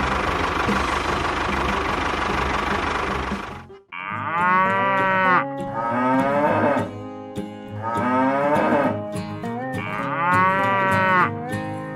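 A small engine running steadily cuts off abruptly about four seconds in, followed by four drawn-out cattle moos, each rising and falling in pitch.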